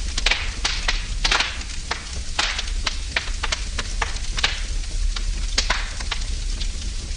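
Wood fire in a fireplace burning and crackling: irregular sharp pops and snaps, several a second, over a steady hiss of the flames.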